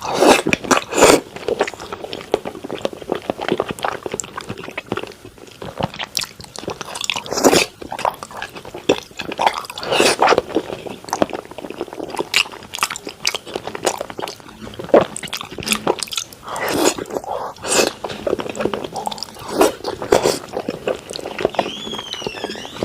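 Close-up chewing and biting of thick-cut raw salmon: irregular wet, squishy mouth sounds with sharper bites now and then.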